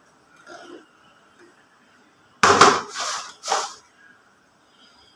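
Plastic toy parts being handled, with three short loud rattles in quick succession about two and a half seconds in.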